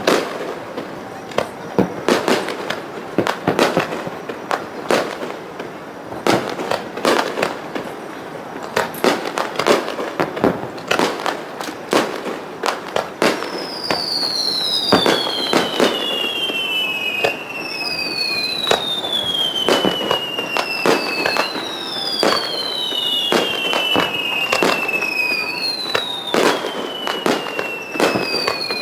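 Fireworks display: a rapid run of shells bursting with sharp bangs and crackle. From about halfway through, a series of high falling whistles repeats every second or two over the bangs.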